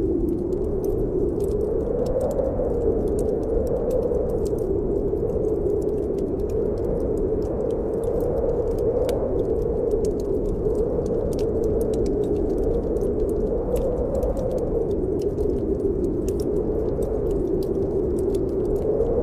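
Snowstorm wind howling steadily, its pitch slowly rising and falling, with a wood fire in a fireplace crackling and popping throughout.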